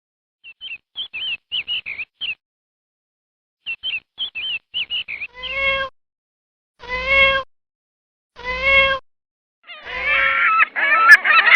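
A domestic cat meowing three times, each meow a long, clear, drawn-out call, after two runs of quick high chirping calls. Near the end a louder jumble of overlapping animal calls takes over.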